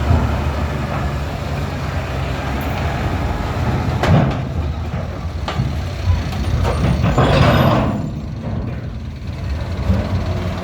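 Heavy loaded truck's diesel engine running at low revs as it manoeuvres. There is a sharp knock about four seconds in and a burst of hiss around seven seconds in.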